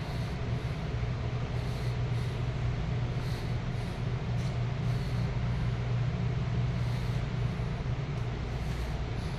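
Steady low rumbling hum, with faint soft ticks about every second or so.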